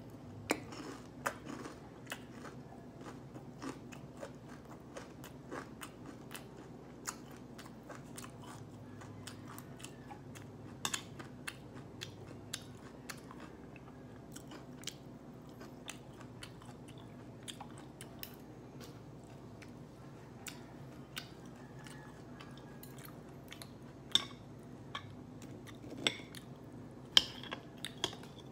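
Close-up chewing and crunching of Korean yangnyeom fried chicken, with scattered sharp clicks of metal chopsticks against the plate and bowl, the loudest few near the end. A steady low hum runs underneath.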